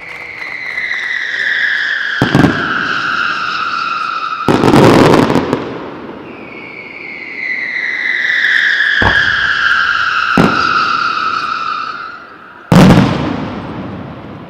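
Fireworks: two long whistles, each falling slowly in pitch over about five seconds, broken by sharp bangs. About four and a half seconds in, a loud crackling burst; the loudest single bang comes near the end.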